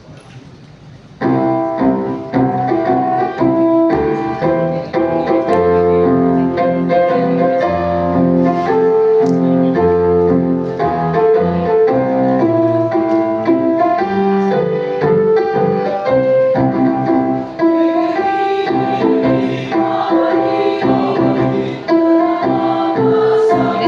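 Piano playing the instrumental introduction to a choir piece, coming in about a second in and then playing chords and melody steadily.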